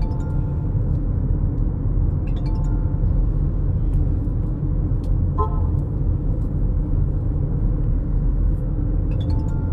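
Steady low road and engine rumble of a moving car, heard from inside the cabin, with a few brief faint tones.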